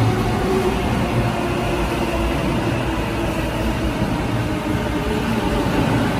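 JR East E233 series electric commuter train running past along the platform: a steady rumble of wheels on rail with a humming whine of several steady tones.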